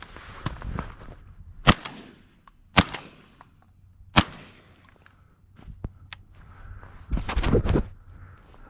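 Three shotgun shots fired in quick succession, about a second apart, each a sharp report with a short echo. A few light clicks follow, then a brief burst of rustling near the end.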